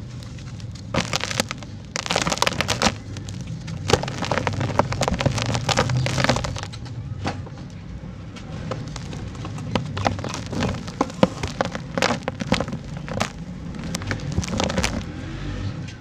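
Dry, dusty sand-cement chunks crumbling and breaking apart, a dense run of crackles and snaps with sharper cracks standing out. The crackling thins out around the middle and picks up again after about ten seconds.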